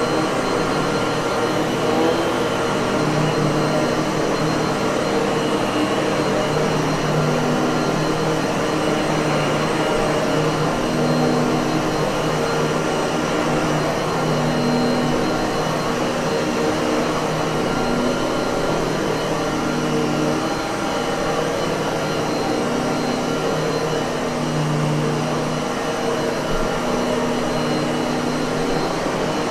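Miele vacuum cleaner running steadily: a constant rush of air with a faint steady whine in it.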